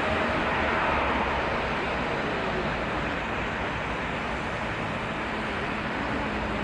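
Airbus A320neo jet engines during takeoff: a steady, even rushing noise with a faint, slightly falling tone near the start.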